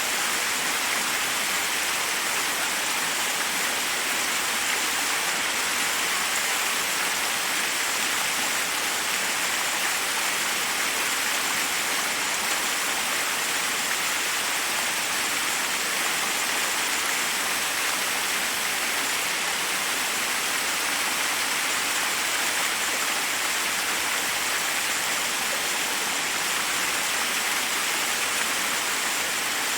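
Forest waterfall rushing steadily: an even, unbroken hiss of falling water with little deep rumble.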